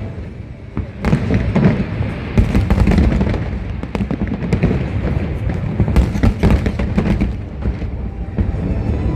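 Fireworks display: many bangs and crackling bursts in quick succession over a continuous low rumble, with a short lull at the start before the bursts pick up again.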